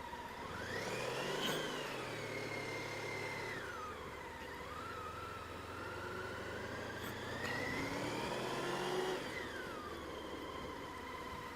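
Honda ST1300 motorcycle engine pulling away, revving up and easing off twice as it accelerates at low speed.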